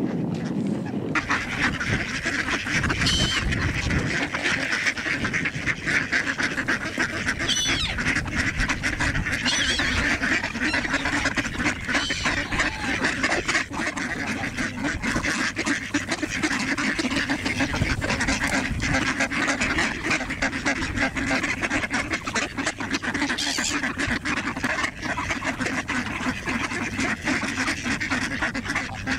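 Large mixed flock of ducks and geese calling all at once, a continuous din of quacking and honking. A few brief high calls cut through now and then.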